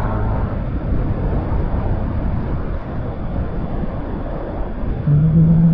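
Wind rushing over the microphone and road noise while riding a motor scooter, with its engine running steadily underneath. Near the end a louder steady low hum comes in for about a second.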